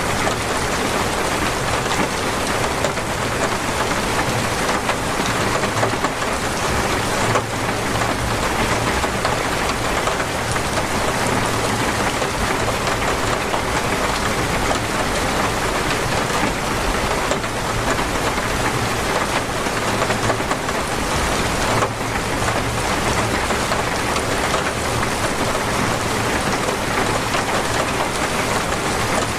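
Heavy torrential rain falling steadily, a dense even hiss with no breaks.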